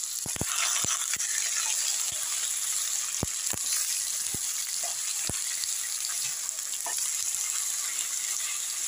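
Raw chicken pieces and fried onions sizzling in a nonstick wok over a high flame, a steady hiss, while a spatula stirs them, with scattered clicks as it knocks against the pan.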